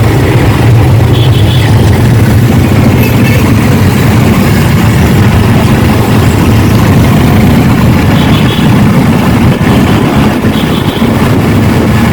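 Yamaha R15's single-cylinder engine running steadily on the ride, a loud, even low hum with no change in pace.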